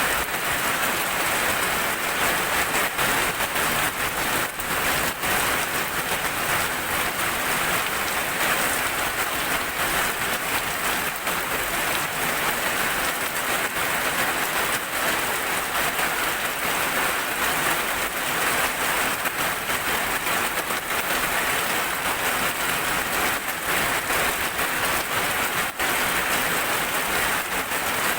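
Heavy rain falling steadily: a dense, even hiss with scattered taps of single drops.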